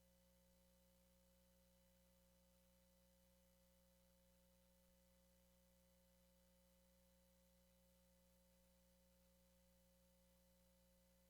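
Near silence: a faint, unchanging hum of several steady tones over low hiss.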